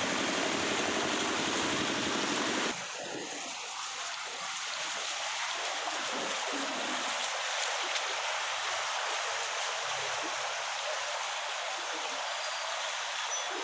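Steady rush of running water. About three seconds in it cuts abruptly from a louder, deeper rush to a lighter hiss.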